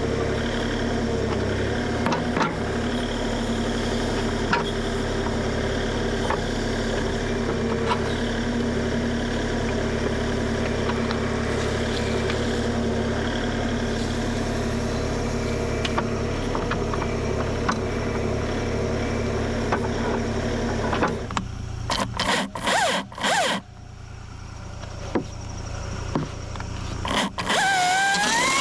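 Kubota KX040 compact excavator's diesel engine running steadily, with scraping and occasional clicks of the machine at work. About 21 seconds in the engine sound drops away, a few sharp knocks follow, and near the end a rising whine starts up.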